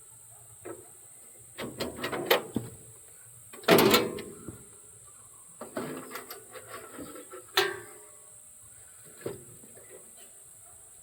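Scattered knocks and clatter of objects being handled and set or tossed down, typical of clearing debris around a sawmill. The loudest clatter comes about four seconds in, with another sharp knock a little before eight seconds.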